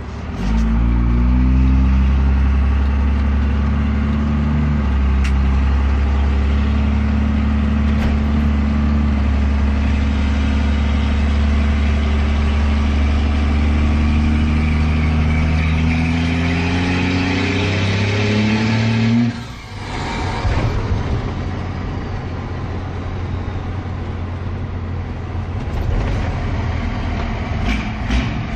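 12-valve Cummins 5.9 L inline-six diesel through a 4-inch straight-pipe exhaust, pulling under load with its pitch climbing slowly. About two-thirds of the way through the throttle drops off sharply and the engine falls back to a quieter, rougher rumble.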